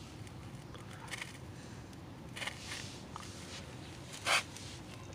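Faint rustling of grass and clover leaves being parted by hand, in a few short bursts, the loudest one brief and near the end.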